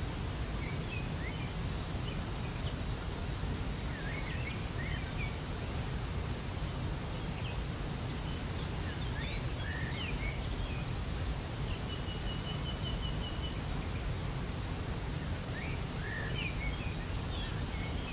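Waterfall rushing steadily, with songbirds calling over it: scattered short chirps throughout and a brief rapid trill about twelve seconds in.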